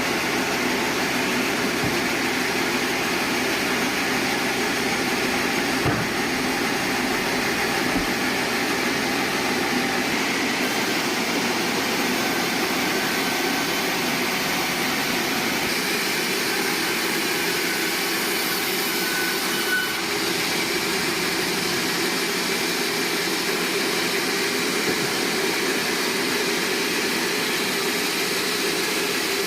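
Steady drone of sawmill machinery running, with two short knocks about six and eight seconds in.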